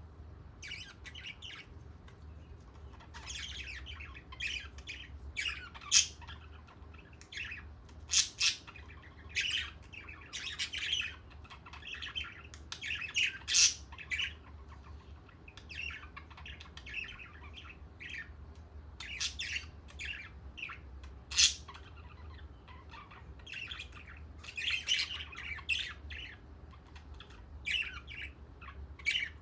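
Pet budgerigars chattering and squawking: a continuous run of short, irregular chirps and warbles, with a few louder squawks now and then, over a faint steady low hum.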